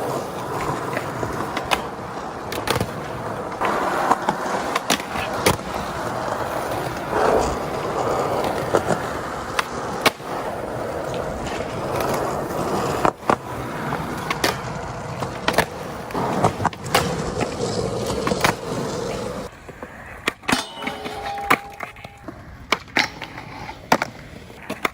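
Skateboard wheels rolling steadily over hard ground, broken by many sharp clacks of the board's tail popping and the board landing. About two-thirds of the way through the rolling stops, leaving only a few scattered clacks.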